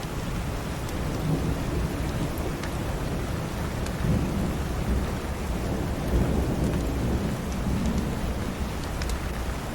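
Steady rain falling, with a long, low rumble of thunder that builds about a second in and peaks around the middle before easing off.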